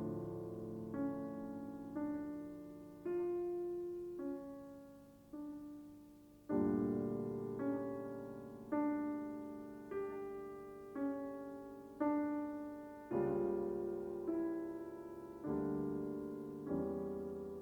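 Slow solo piano music: notes and chords struck about once a second, each left to ring and fade.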